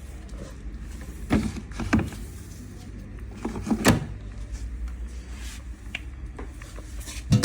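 Haier washing machine being handled: a low steady hum with several sharp clunks, two close together a little over a second in, another pair near four seconds, and one at the end.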